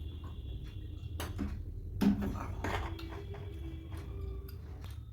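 Close-miked eating sounds: soft mouth clicks and chewing, with a louder burst of mouth or handling noise about two seconds in, over a steady low hum.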